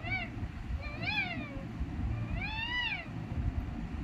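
Pet parrot giving meow-like calls: three drawn-out cries, each rising and then falling in pitch.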